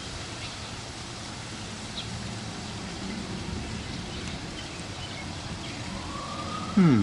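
Steady outdoor background noise with a few faint bird chirps. Just before the end, a short loud sound falling quickly in pitch.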